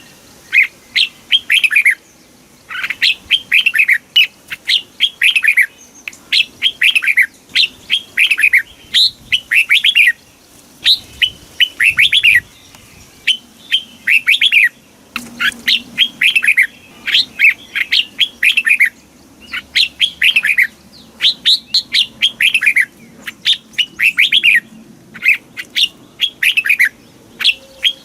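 Red-whiskered bulbul singing: short bright phrases, each a quick cluster of downward-sweeping whistled notes, repeated over and over with brief pauses between them.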